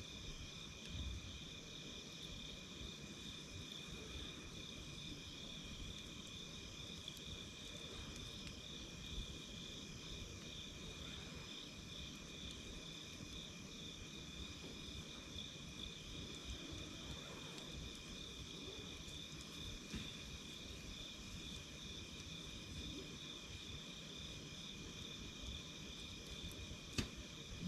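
Night insects calling steadily in two high, unbroken trills, one of them pulsing. Under them is a low haze, with an occasional sharp pop from the crackling campfire, the clearest one near the end.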